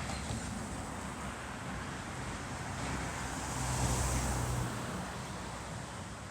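Steady outdoor engine rumble with some hiss, swelling to a peak about four seconds in and then easing off, like a motor vehicle passing or working close by.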